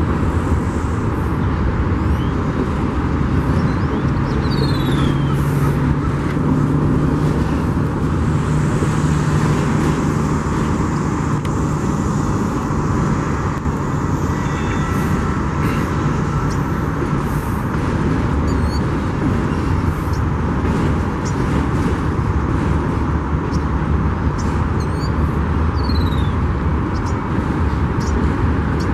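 Union Pacific freight train rolling past, a steady low rumble of wheels on rail, with a steady low hum for several seconds in the first half and scattered light clicks.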